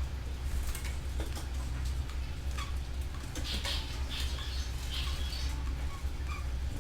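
Canaries giving short, scattered chirps over a steady low rumble.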